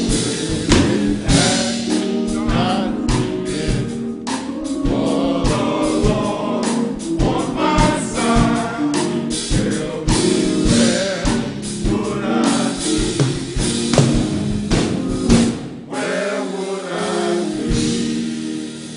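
Gospel choir singing with band accompaniment and a steady drum beat; the song winds down to a held chord near the end.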